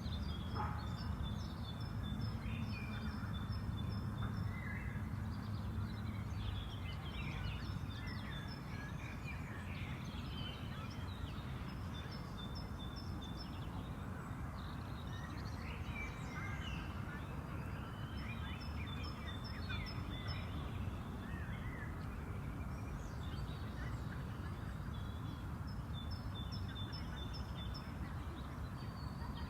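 Spring park ambience: several birds singing and chirping, one repeating a rapid trill every several seconds, over a steady low background rumble.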